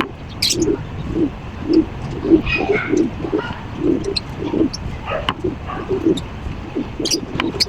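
A bird calling in short, low-pitched notes repeated two or three times a second, with a few sharp clicks among them.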